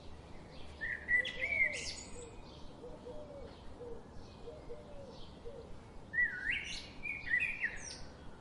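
Birds singing: two short bright song phrases, one about a second in and another near the end, with a faint string of lower repeated notes between them over a soft steady background.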